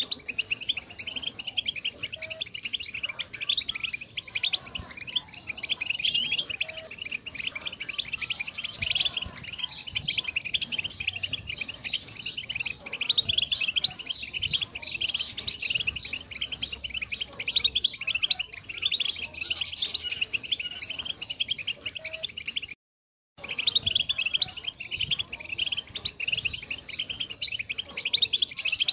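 European goldfinches twittering: a dense, continuous stream of rapid high chirps and trills, cutting out for about half a second near the 23-second mark.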